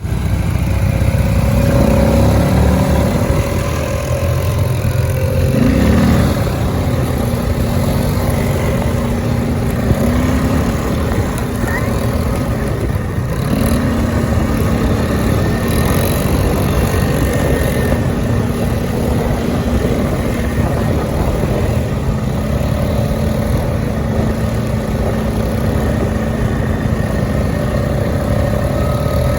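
Quad bike engine running, its pitch rising briefly with revs about two and six seconds in, then holding steady.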